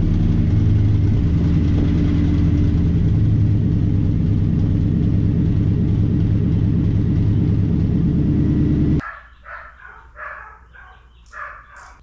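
Pickup truck engine idling steadily just after starting, then stopping abruptly about nine seconds in. It is the truck's tired original motor, which the owner means to replace because it lacks power.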